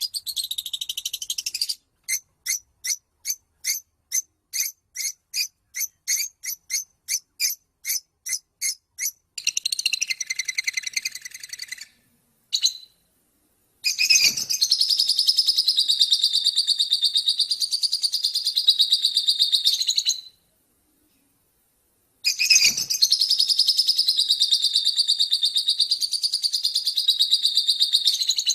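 Recorded songbird song: a run of short, evenly spaced chirps at about two a second, then long, fast, buzzy trills of several seconds each. The trills are broken by abrupt silent gaps where the recording is looped.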